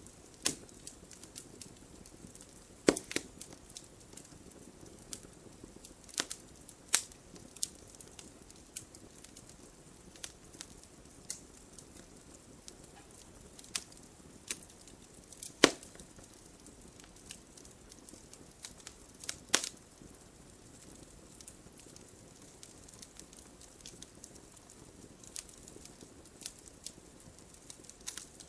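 Wood fire in a fireplace crackling: irregular sharp pops and snaps from burning logs over a faint steady hiss of flame, with a few louder pops scattered through.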